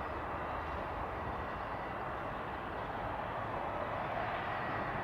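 Jet airliner taking off at a distance: steady, even engine noise.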